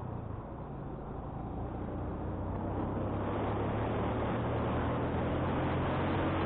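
Motorcycle engine running steadily while riding uphill, with wind noise rushing over the microphone; the wind noise grows louder from about two seconds in.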